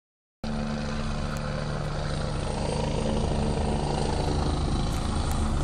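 Swedish Armed Forces Helicopter 15, an Agusta A109 twin-turbine helicopter, coming in to land. The rotor beats steadily and the engine sound grows slowly louder as it approaches. The sound begins abruptly just after the start.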